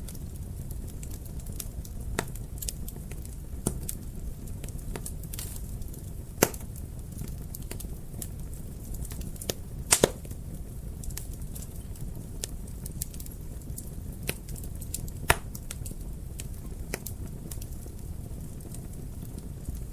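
Wood fire burning in a fireplace: a steady low rumble of flames with irregular sharp crackles and pops, the loudest about six and a half, ten and fifteen seconds in.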